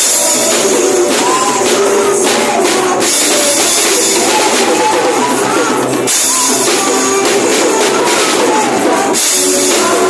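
Live praise band playing loudly, with singing and bright high jingling percussion.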